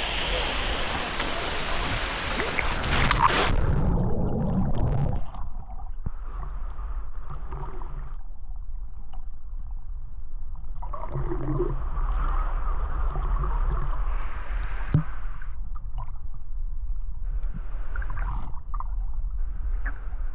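Loud rushing, splashing water that cuts off abruptly about three and a half seconds in. It gives way to muffled gurgling water sounds over a steady low rumble.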